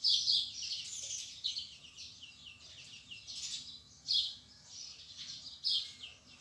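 Small birds chirping: quick runs of short, high, down-slurred chirps, repeated several times with short pauses between.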